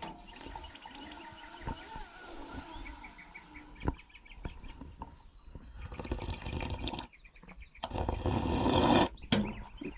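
A man slurping and sucking water from a weak-running drinking fountain, with the splashing rush of the water at its loudest about eight seconds in. The stream is too feeble to drink from normally, so the water has to be sucked in.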